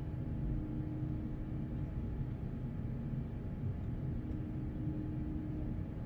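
Steady cabin noise of an Airbus A350-900 in flight, heard from inside the cabin: the engines' even drone with a constant low hum through it, airliner climbing after takeoff.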